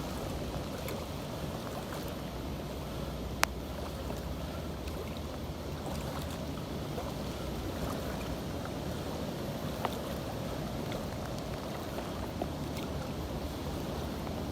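Boat motor running steadily with a faint low hum under wind and water noise, and a single sharp click about three and a half seconds in.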